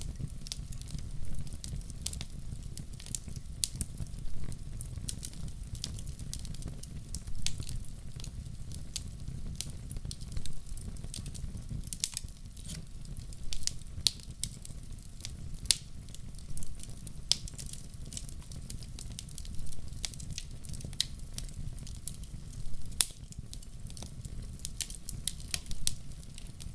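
Wood fire burning in a fireplace: a steady low rumble of the flames with irregular sharp crackles and pops from the burning logs, several a second.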